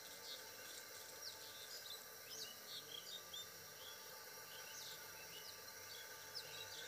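Faint, irregular chirping of small birds: many short high notes, one after another, over a steady background hiss.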